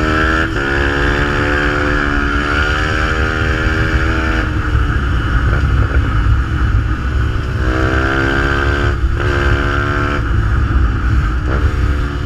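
Fantic 125 supermotard with a GPR exhaust, running under way. The engine note climbs and falls as the throttle is worked, and it breaks off briefly about four and a half and nine seconds in, like gear changes or throttle lifts.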